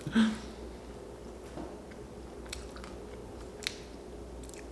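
A man chewing food with his mouth close to the microphone, with a few faint, sharp mouth clicks.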